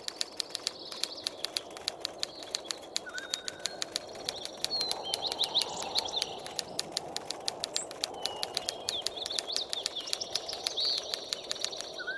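Birds chirping, with short rising chirps and a brief whistled note, over a fast, irregular run of sharp clicks and a steady background hiss.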